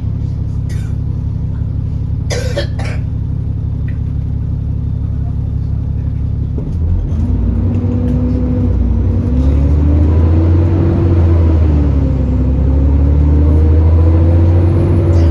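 Alexander Dennis Enviro400 E40D bus engine idling with a steady low drone and a few sharp knocks early on. About seven seconds in, the bus pulls away and the engine note grows louder and climbs, wavering as it accelerates.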